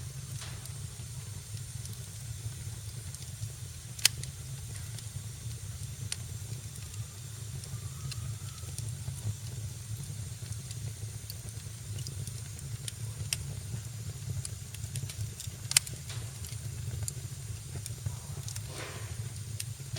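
Wood fire in a fireplace crackling, with scattered sharp pops (two loud ones, about 4 and 16 seconds in) over a steady low rumble and hiss, and a brief soft rush near the end.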